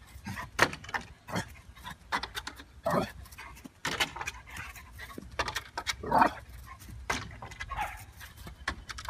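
A dog making short vocal sounds a few times, amid many quick clicks and knocks.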